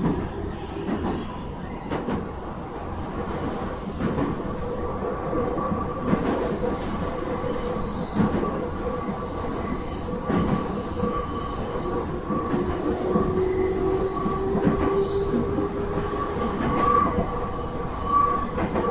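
Nankai 2300 series electric train running, heard from inside the car: the rumble of wheels on rail with steady high-pitched squeal tones.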